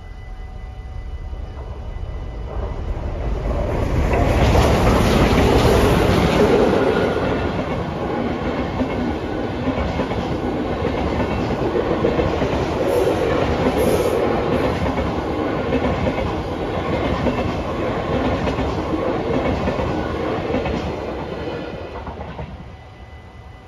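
Steam-hauled special train, a DB class 23 steam locomotive pulling a long rake of coaches, passing over the level crossing. It swells to its loudest a few seconds in, then the coaches' wheels knock over the rail joints for a long stretch before fading away near the end.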